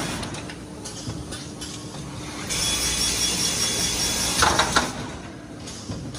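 Automatic microfiber towel cross-sewing machine running through its work cycle: a quieter stretch, a louder run of machine noise from about two and a half seconds in, ending in a couple of sharp clacks, then quieter again.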